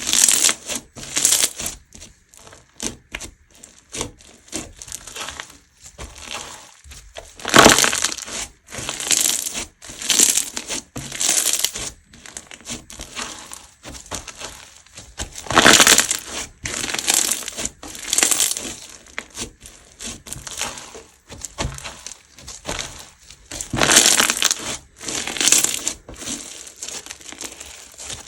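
Crunchy slime being squeezed and pressed by hand, making crisp crackling sounds in irregular bursts, with a few louder squeezes.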